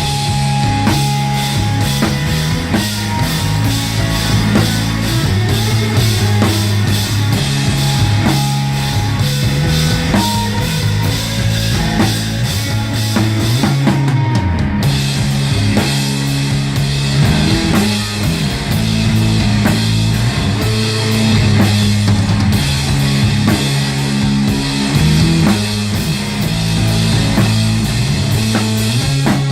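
A rock band playing live and loud: a drum kit with a steady driving beat, electric guitar and a moving bass line. About halfway through, the cymbal pattern changes.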